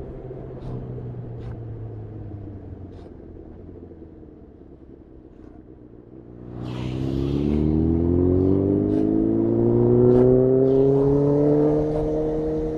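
Honda CB1000R inline-four through a full Black Widow exhaust, off the throttle with its note falling and quiet for about six seconds. It then pulls hard, the pitch rising steadily until near the end.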